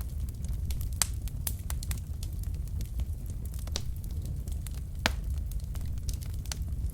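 Wood fire burning in a fireplace: a steady low rumble of the flames with scattered sharp crackles and pops, the loudest about a second in and about five seconds in.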